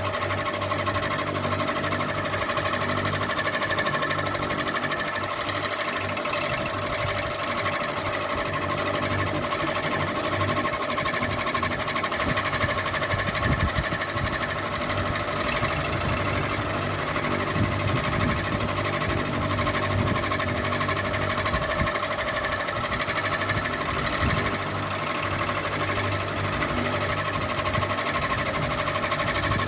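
Ceiling fan running steadily: an even mechanical hum with several steady tones and a fast, regular texture.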